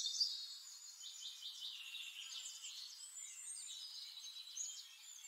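Birdsong: several birds chirping and trilling at once, all high-pitched, with nothing in the low range beneath.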